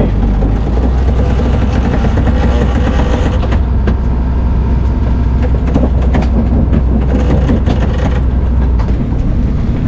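Strong wind buffeting the microphone on a sailboat under sail in high wind, a steady low rumble with a rushing haze over it.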